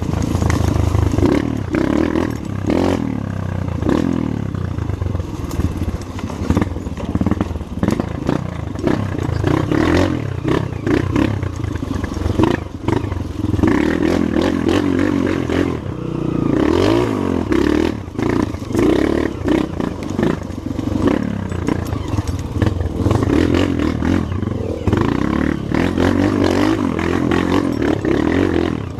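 Trail motorcycle engine running under load, its pitch rising and falling repeatedly as the throttle is worked over rough ground, with frequent knocks and rattles.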